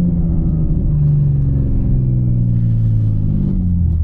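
Single-turbo BMW G80 M3's inline-six engine running while driving, a steady deep rumble whose pitch eases down toward the end as the revs fall.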